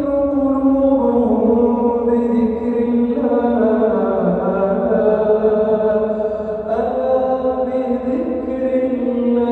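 A man's voice chanting Quran recitation in a slow melodic style, holding long drawn-out notes that glide and step between pitches without a break.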